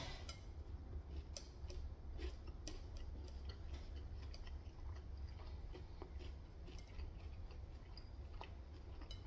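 Faint chewing of Korean fried chicken close to the microphone: scattered irregular crunches and mouth clicks over a low steady hum.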